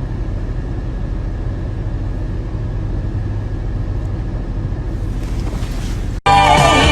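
A steady low rumbling noise that cuts off abruptly about six seconds in.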